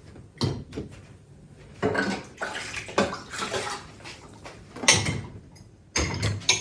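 Dishes being set into a dishwasher's racks: separate clinks and knocks of crockery and metal, roughly one every second or so, with quiet in between.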